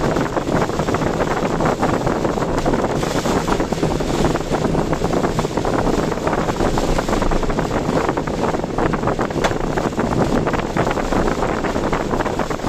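Typhoon wind and rain rushing against a moving car, mixed with its road noise, as a steady loud roar with many small irregular crackles.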